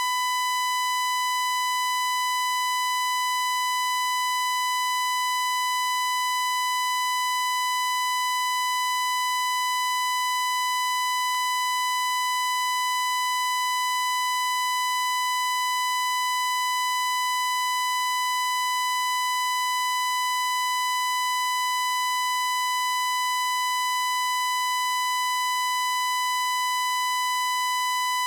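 A steady electronic tone at about 1 kHz, like a test tone or censor bleep, held at one pitch and one loudness without a break.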